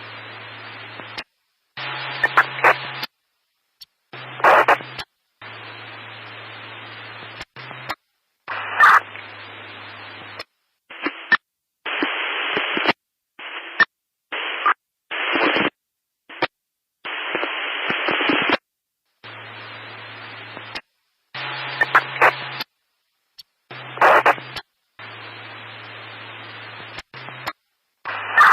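Static noise: bursts of hiss that cut in and out abruptly every second or two with short silent gaps, some carrying a low hum underneath and some sharp crackles.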